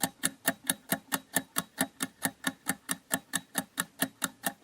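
Countdown timer sound effect ticking: even, sharp clock-like ticks, about four a second.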